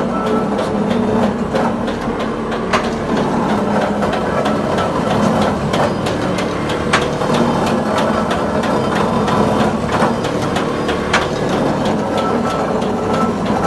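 A glass mosaic machine running: a steady mechanical hum with irregular sharp clicks and ticks, several a second, throughout.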